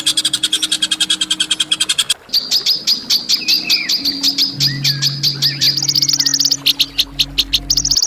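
Songbird masteran recording: fast trains of sharp, high repeated notes, about ten a second. The note pattern changes about two seconds in and again near the end, over a steady low hum.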